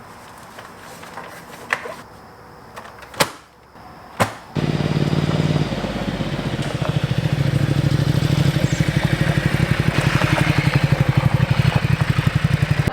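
A few sharp clicks, then about four and a half seconds in a KTM 1290 Super Adventure's V-twin engine starts and settles into a steady, pulsing idle.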